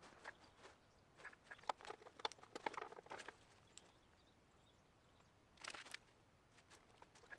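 Faint scattered clicks and light taps in two short clusters, the first longer and busier, the second brief a couple of seconds later, over near silence.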